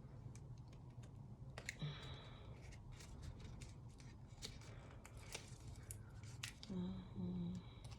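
Faint, scattered clicks and small scraping noises of a cosmetic highlighter's packaging being handled and worked open by hand, with a brief low hum near the end.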